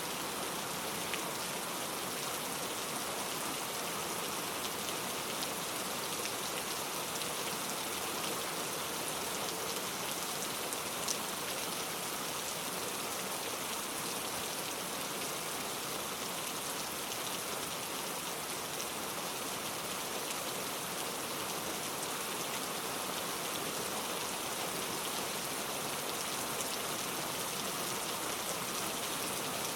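Steady heavy rain falling on a surface, an even hiss with faint individual drop ticks and no thunder.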